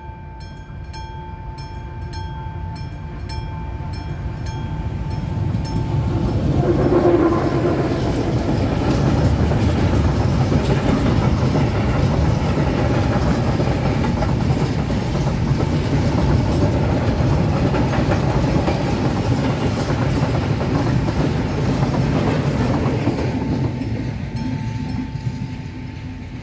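Level-crossing mechanical bell ringing with rapid, even strikes. From about six seconds in a freight train of tank cars and open wagons passes over the crossing, its wheels clattering and rumbling and drowning out the bell. The bell is heard again near the end as the train clears.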